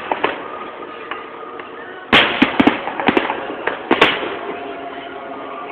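Aerial fireworks shells bursting: a quieter stretch, then a sudden loud boom about two seconds in, followed by a string of sharp bangs and crackles.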